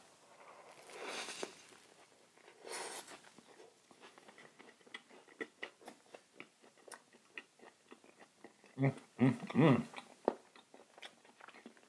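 Close-miked chewing of food: wet mouth clicks and soft crunches, with two breaths in the first few seconds and a short hum from the eater about nine seconds in.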